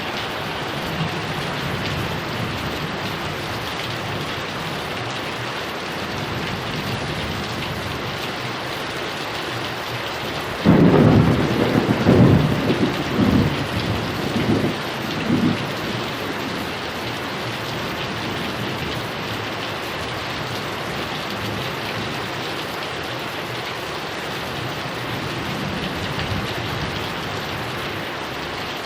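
Heavy rain falling steadily with a constant hiss. About a third of the way in, a clap of thunder breaks with a sudden crack and rolls on in several rumbling peaks for about five seconds before the rain alone remains.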